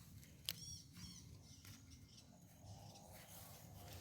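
Near silence with a sharp click about half a second in, followed at once by a few quick high chirps from a small animal.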